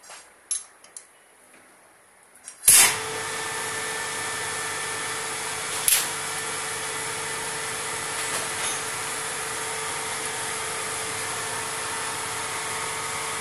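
A few light clicks, then about three seconds in an electric motor-driven workshop machine switches on with a loud start and runs steadily, a constant hum with hiss. A sharp click sounds about six seconds in.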